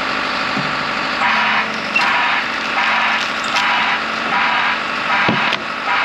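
Heavy machinery running steadily, with a rasping noise that pulses about every three-quarters of a second from about a second in, and a single sharp clank about five seconds in.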